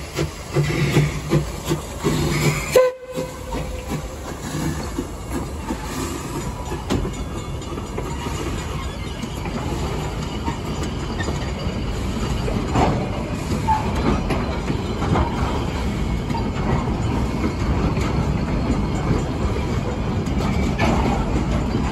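Narrow-gauge steam train with wooden carriages rolling slowly past: a steady low rumble with wheels clacking over rail joints and a few short squeaks.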